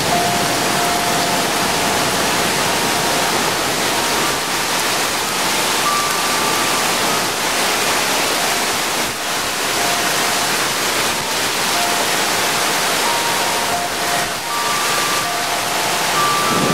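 Heavy rain pouring steadily in a thunderstorm, a loud, even hiss. Faint short high tones come and go beneath it.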